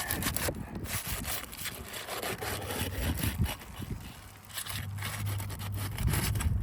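Irregular scraping and rubbing on roof shingles as they are worked loose. A low steady hum comes in about two-thirds of the way through.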